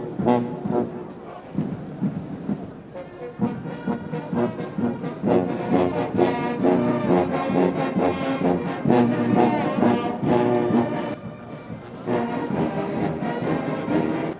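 Brass band music, trombones and trumpets playing held chords that change every second or so.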